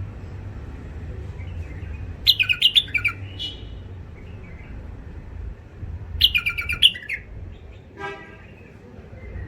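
Wild-caught bulbuls singing: two short bursts of rapid chirping song, about two seconds in and again about six seconds in, followed by a brief buzzy note, over a steady low rumble.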